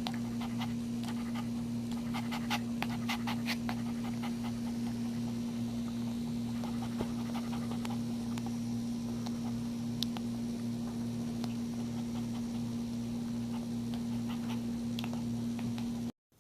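Mother Shih Tzu panting during whelping, with quick soft clicks, over a steady low electrical hum. The sound cuts off abruptly near the end.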